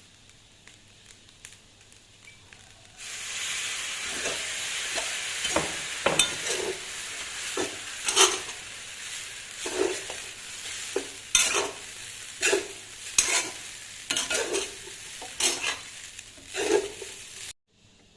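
Food frying in hot oil in a pan: a loud sizzle starts suddenly about three seconds in, with repeated scraping knocks of a spatula stirring against the pan, and it stops abruptly near the end.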